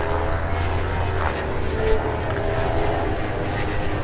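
Superbike racing motorcycle engines running at high revs, a steady loud drone whose pitch shifts a little.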